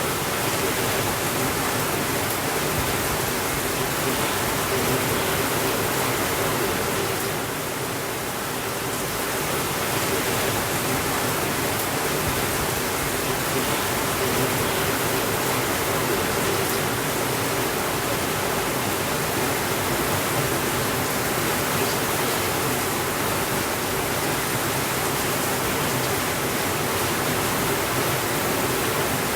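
Steady rainfall, an even dense hiss of rain without thunder, dipping slightly in level about eight seconds in.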